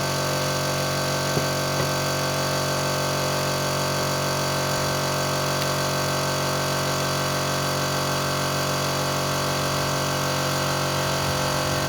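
Electric power tool motor running steadily at a constant pitch, with a couple of faint clicks early on.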